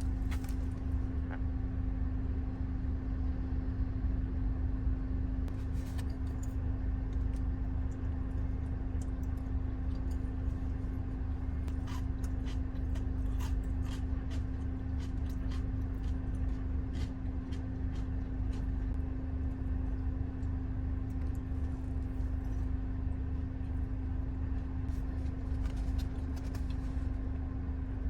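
Car running steadily: a low rumble with a constant hum, and a few faint scattered clicks.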